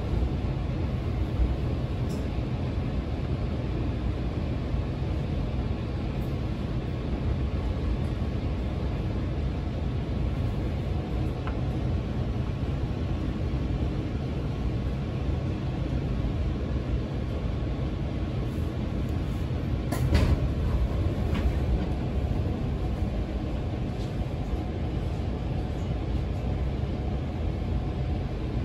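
Electric train running along the rails, heard from inside the passenger car: a steady low rumble of wheels and running gear, with a brief louder knock about twenty seconds in.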